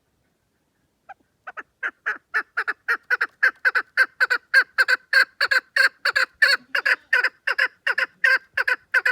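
Chukar partridge calling: a long run of short, sharp 'chuck' notes that starts about a second in, builds quickly in loudness and settles into a steady three to four notes a second.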